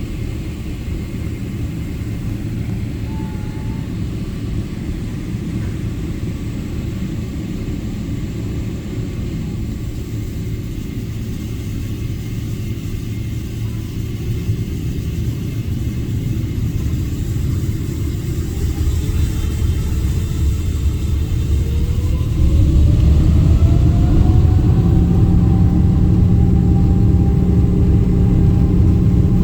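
Jet airliner engines: a steady low rumble, then a whine that rises in pitch from a little past halfway as the engines spool up to takeoff thrust, with the overall sound stepping louder about three quarters of the way in.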